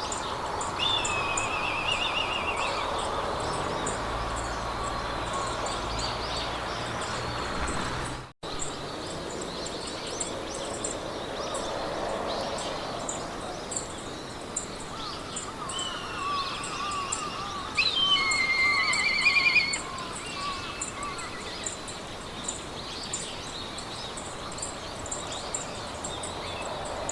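Meadow ambience: birds singing trilled phrases, about a second in and again around two-thirds of the way through, over a fast, even ticking of insects and a steady background hiss. The sound cuts out for a split second about eight seconds in.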